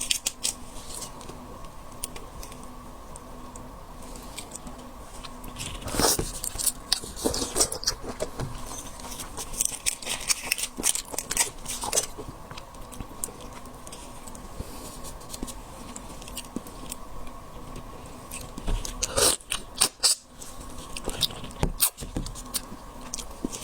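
Close-miked eating sounds of shellfish: scattered crackles, clicks and crunches of shells being handled, bitten and chewed, over a faint steady hum.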